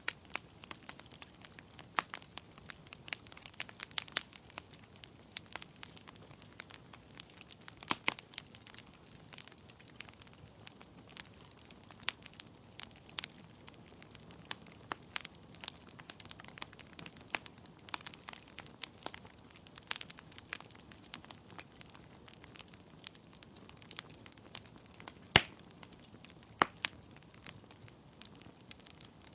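Wood fire burning in a fireplace: logs crackling and popping in irregular sharp snaps over a faint steady hiss, with one louder pop near the end.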